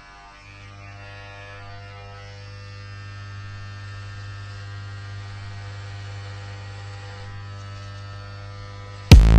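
Steady electrical mains hum, a buzzy drone with many overtones, slowly growing a little louder. About nine seconds in, loud electronic music with a heavy beat cuts in suddenly.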